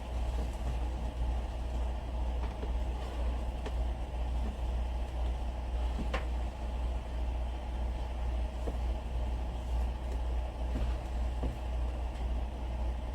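Steady low rumble of an idling vehicle engine, with a few light clicks and one sharper click about six seconds in.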